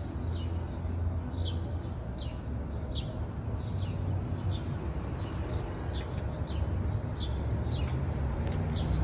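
A bird repeating a short, falling chirp over and over, about one and a half times a second, over a steady low rumble.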